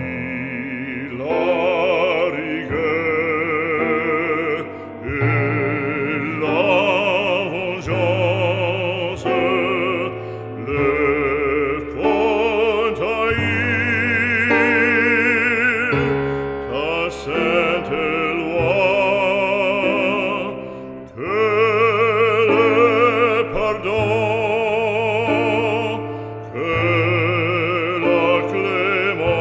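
Operatic solo singing with a strong vibrato over sustained instrumental accompaniment.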